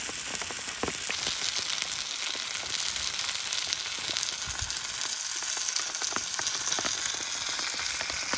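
A steady, dense crackling hiss: chicken pieces and a pork chop sizzling on a small barbecue grill in heavy rain, the sizzle mixed with the patter of rain. The sound cuts off suddenly at the end.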